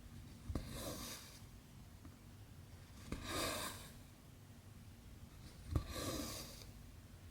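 Cross-stitch needle clicking through 11-count fabric, then cotton embroidery thread pulled through with a swish lasting under a second, three times at an even pace.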